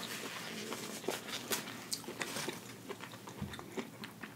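A person chewing food close to the microphone: irregular wet clicks and smacks of the mouth.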